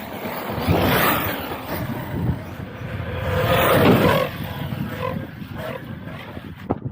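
Arrma Outcast 6S RC stunt truck driving hard, its motor and tyres rising twice in loud surges, about a second in and again around four seconds in.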